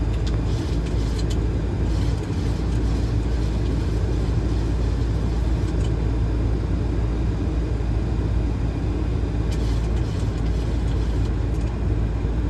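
Steady cockpit noise of a Boeing 737 in flight on approach: a constant low rush of airflow and engines, with a few faint clicks.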